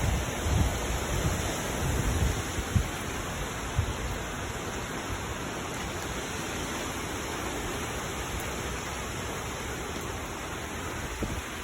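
Steady hiss of heavy hurricane rain and wind, with low gusts of wind buffeting the microphone in the first three seconds.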